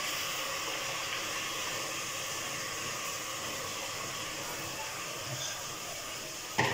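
Steady, even sizzling hiss of a vegetable masala frying in oil in a pressure cooker over a gas flame.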